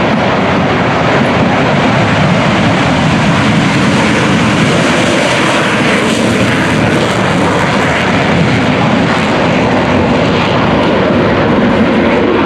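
Military aircraft engines making a loud, steady roar that carries on without a break.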